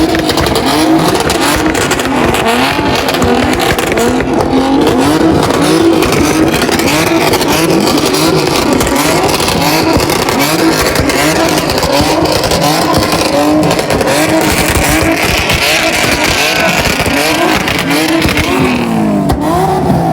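Car engine revving up and down over and over, loud throughout, with a bigger rise and fall near the end.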